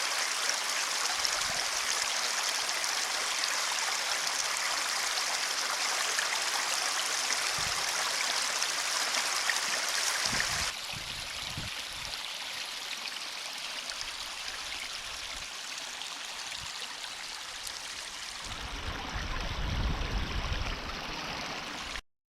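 Water flowing steadily in a drainage ditch. About ten seconds in it drops to a quieter flow, a low rumble comes in near the end, and the sound cuts off suddenly.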